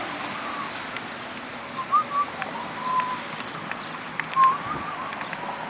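Birds calling in short whistled notes, a few about two seconds in and again near four and a half seconds, over the steady hiss of light rain falling straight down, with a few sharp ticks.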